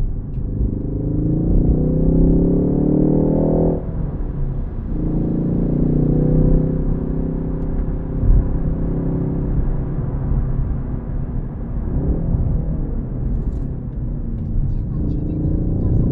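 Ford Focus ST's turbocharged four-cylinder engine under acceleration: the revs climb for about four seconds, drop away suddenly at a gear change, then the engine pulls steadily, and the revs rise again near the end. Low tyre and road rumble runs underneath.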